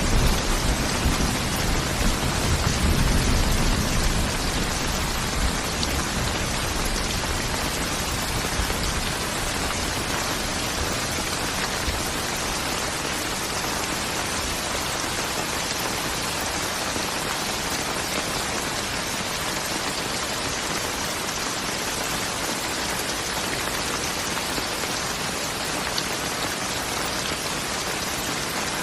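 Steady heavy rain falling, an even hiss throughout. A low rumble of thunder dies away over the first few seconds.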